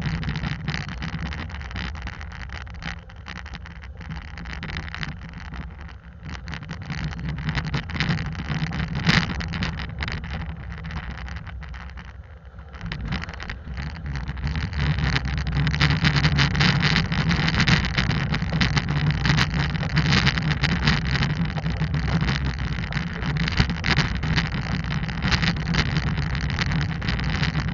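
Hyundai Santa Cruz pickup driving on a rough dirt trail, heard from a mount outside the passenger side: steady engine and tyre rumble with frequent small clicks and crackles from the stony surface. It gets louder about halfway through.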